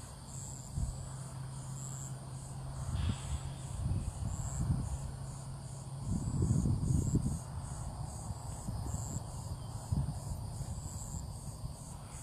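Insects chirping in regular high-pitched pulses, the outdoor chorus of a Florida summer morning, with irregular low rumbles on the microphone through the middle.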